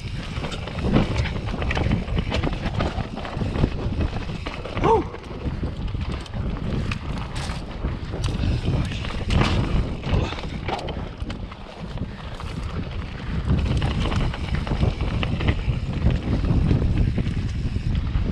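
Wind buffeting the microphone and a full-suspension mountain bike rattling and clattering over rough, muddy trail on a descent, with a short pitched sound about five seconds in.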